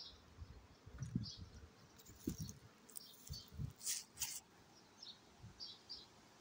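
Faint small-bird chirps outdoors, short high notes recurring every second or so, over low muffled thumps on the microphone and a couple of brief rustles about four seconds in.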